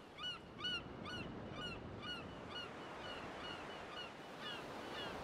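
A bird calling over and over in short, arched chirps, about two a second, over a steady wash of surf.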